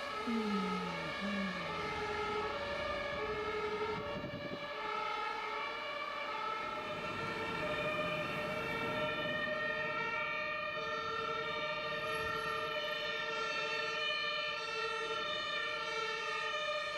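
Two-tone emergency-vehicle siren of a German fire truck (Martinshorn), alternating steadily between a high and a low note. A few short falling glides come near the start.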